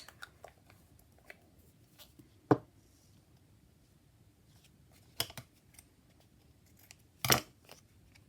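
Small handling sounds from craft work: scattered faint clicks and rustles, with two louder sharp clicks, one about a third of the way in and one near the end, of the kind scissors or tools make when snipped or set down.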